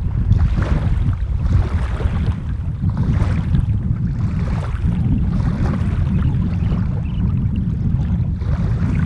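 Flowing water rushing while strong wind buffets the microphone, giving a heavy, steady low rumble under the hiss of the water.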